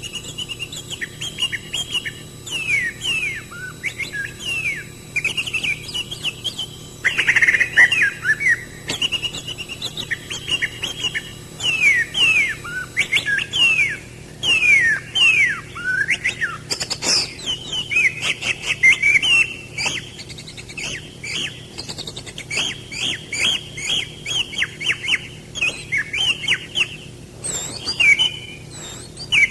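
Birds chirping: a quick, unbroken string of short calls that sweep down in pitch.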